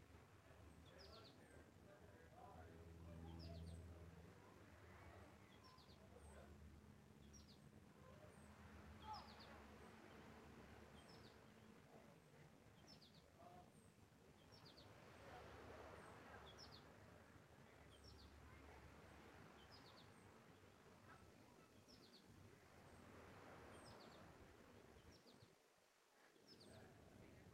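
Faint outdoor ambience: a bird repeating a short, high chirp about every one to two seconds, over a faint low hum and a few slow swells of background noise.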